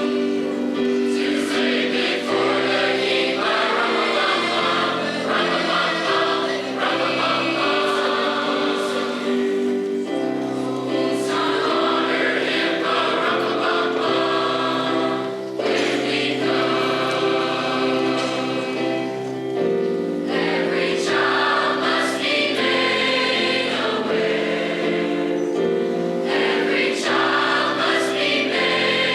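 High school choir singing in harmony, moving through long held chords.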